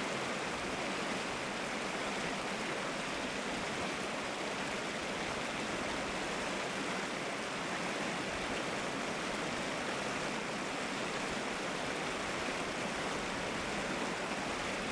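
River water flowing steadily, an even rushing sound with no splashes standing out.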